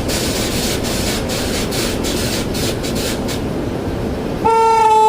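Train running with steady rumble and repeated clatter, then near the end a train horn sounds one loud, steady note.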